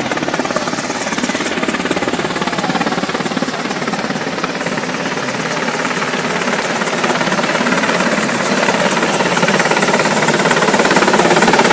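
Helicopter running with a fast, steady rotor chop, growing steadily louder.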